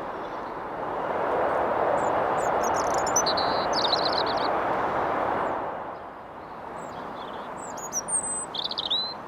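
European robin singing short, high, thin phrases over urban background noise that swells about a second in and fades after about five seconds; the delicate high notes cut through the noise.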